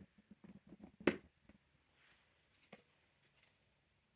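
Jigsaw puzzle pieces being handled and fitted together: a few faint taps and clicks, the sharpest about a second in.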